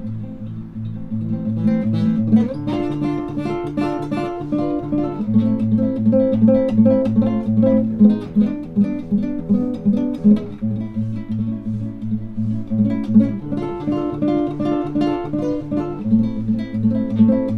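Acoustic guitar music: plucked notes and chords over a steady bass line.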